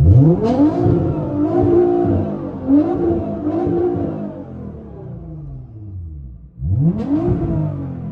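Suzuki Hayabusa superbike engine being revved: a sharp rise right at the start, a run of quick rev blips, then the revs fall away. After a brief lull about six and a half seconds in comes one more rev that rises and falls.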